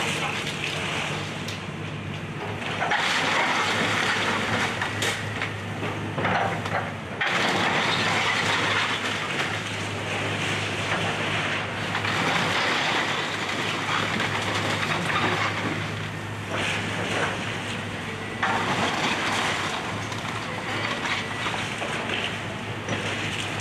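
Excavator's diesel engine running steadily while it tears down a house, with stretches of loud crunching debris coming and going every few seconds.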